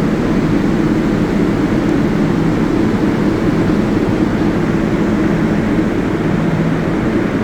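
Steady, loud drone of a 7 subway train at the Flushing–Main St platform, with a low hum and no change in level.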